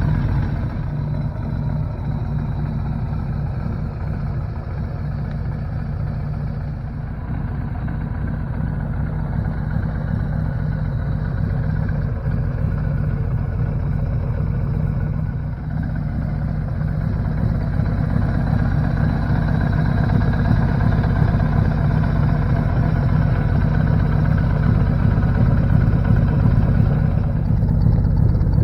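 1983 Suzuki GS1100's air-cooled inline-four engine, a freshly installed replacement, idling at a steady speed, somewhat louder in the second half.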